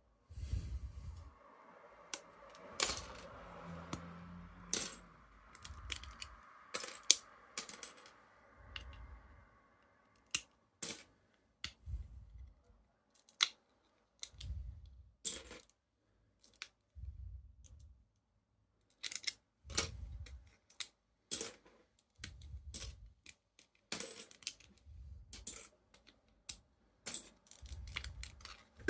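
Hard plastic Lego parts clicking and rattling as the model is handled, with many irregular sharp clicks and dull low bumps every second or two.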